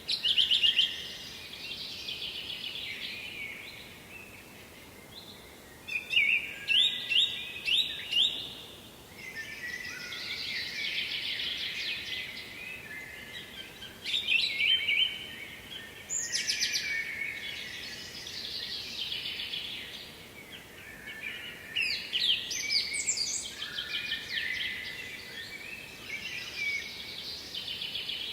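Several songbirds singing, with phrases of quick trills and notes overlapping one another over a faint steady background hiss.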